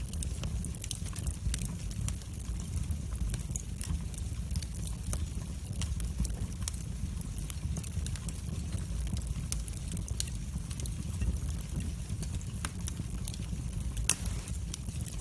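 Wood fire crackling in a fireplace: a steady low rumble of the flames with frequent, irregular sharp pops and snaps, one louder pop near the end.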